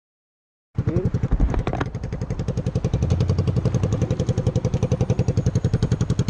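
Silence for just under a second, then a motorcycle engine running with a steady, rapid, even exhaust beat.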